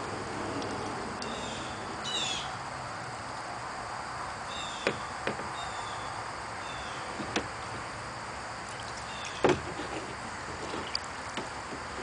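Small birds chirping in short, repeated calls, with a few sharp knocks in between, the loudest about nine and a half seconds in.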